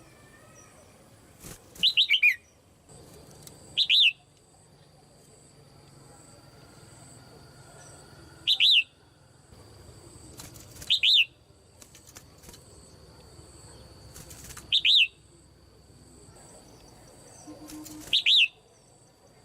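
Red-whiskered bulbul, a caged female, calling: six short bursts of quick, falling chirpy notes, a few seconds apart, over a faint steady high-pitched tone.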